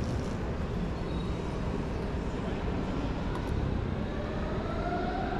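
Steady low noise in a large railway station, with an electric train's traction motors starting a slowly rising two-tone whine a little past halfway as the train gets moving.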